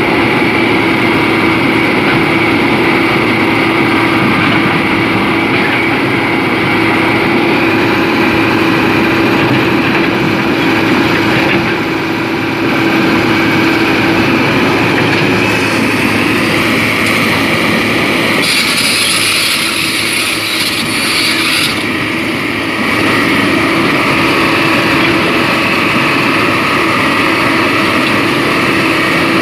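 Excavator's diesel engine running steadily under load, with a hiss for a few seconds about two-thirds of the way through.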